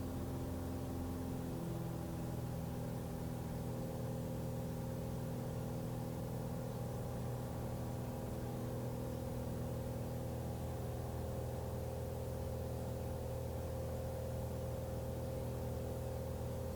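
Cessna 182's six-cylinder piston engine and propeller droning steadily in flight, with the engine note shifting in pitch about two seconds in.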